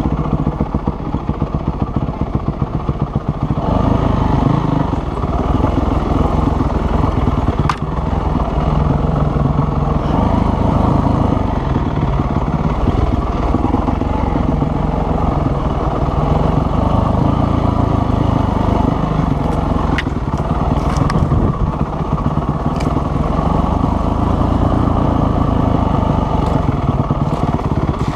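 Dirt bike engine running, choppy at low revs at first, then louder and steadier from about four seconds in, with a few sharp clicks.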